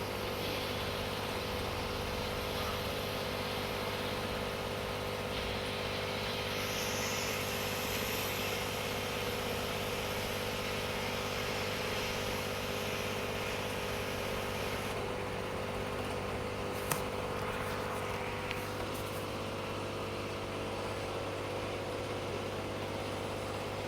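Steady hum of running machinery, holding one even pitch throughout, with a single sharp click about seventeen seconds in.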